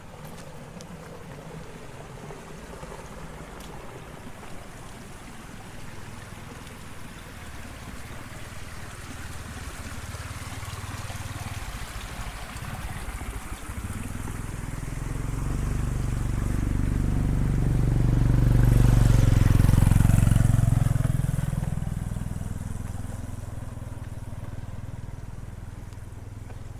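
A motor vehicle approaching, passing close and fading away. Its engine grows louder over about ten seconds, is loudest with a brief rush about two-thirds of the way through, then dies down.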